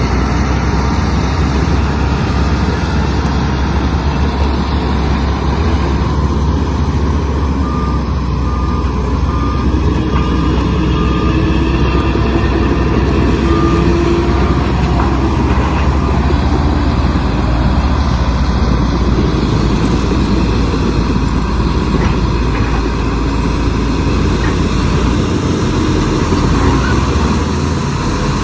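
Heavy diesel construction machinery running steadily under load, with a deep, continuous engine sound. About a third of the way in comes a run of evenly spaced beeps, like a reversing alarm.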